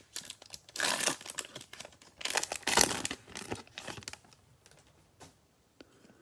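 Cellophane wrapper of a football trading-card cello pack crinkling as it is torn open and handled, in loud bursts for the first few seconds, then dying down to a few faint ticks.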